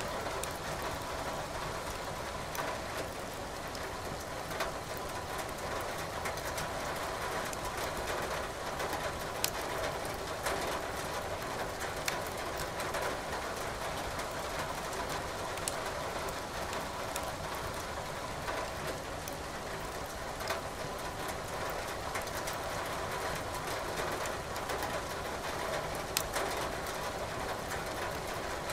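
Steady rain hiss with scattered sharp pops of firewood crackling in a fireplace, half a dozen or so standing out.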